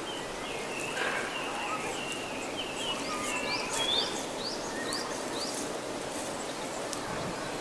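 Forest ambience with several birds calling: scattered short whistled notes, and from about three seconds in a quick run of rising chirps, over a steady background hiss.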